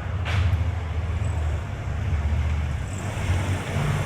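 Street traffic rumbling steadily, with wind buffeting the microphone.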